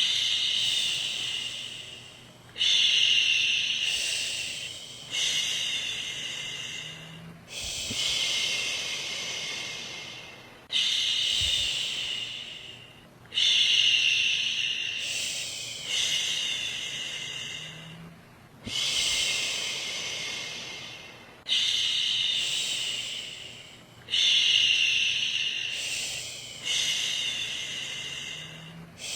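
A woman shushing ("shhh") to settle a baby to sleep, a long shush repeated about every two and a half seconds, each one starting sharply and trailing off.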